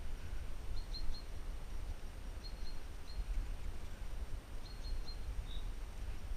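Small bird chirping in short high notes, in little groups of two or three, over a steady low rumble.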